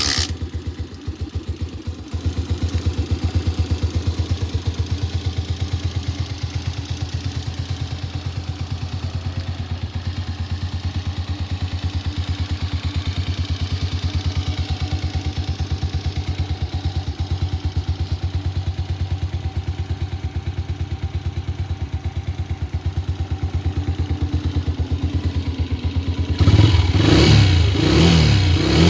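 Patron Aero 125F motorcycle engine starting up after winter storage, then idling with a steady, even beat. About 26 seconds in it is revved, louder, with the pitch rising and falling.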